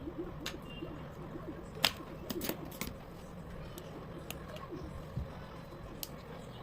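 Scattered sharp metallic clicks and clinks of tools and engine parts being handled, loudest about two seconds in with a quick cluster just after. Pigeons coo faintly in the background.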